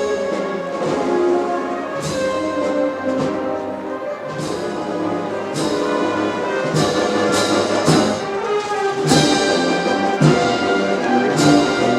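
Spanish Holy Week wind band playing a processional march, with brass leading, backed by woodwinds and strokes of the drums.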